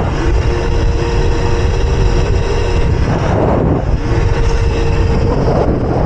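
Wind rushing over the microphone of a moving electric mini bike, with the steady high whine of its electric motor. The whine drops out for about a second midway, then comes back.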